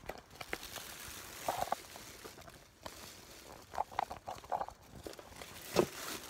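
Handling noises: scattered light clicks, taps and short rustles, irregular and with no steady rhythm, with a sharper knock near the end.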